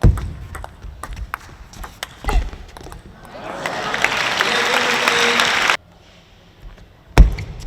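Table tennis rally: sharp clicks of the ball on bat and table, then arena crowd applause and cheering that builds for a few seconds and cuts off suddenly. A loud thump near the end, followed by more ball clicks.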